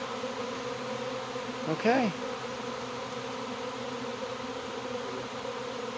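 Steady buzzing hum of a large honey bee swarm moving into a hive, a dense drone of many bees at once.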